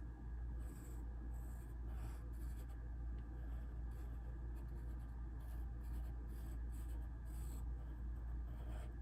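Drawing strokes on sketchbook paper: short scratchy strokes at an irregular pace, over a steady low hum.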